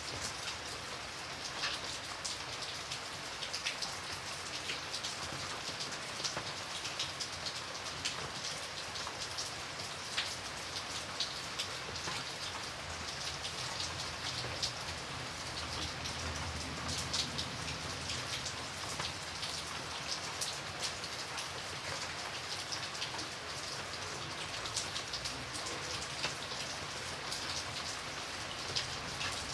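Steady rain with many individual raindrops tapping against a window pane, an even hiss peppered with irregular sharp drop ticks.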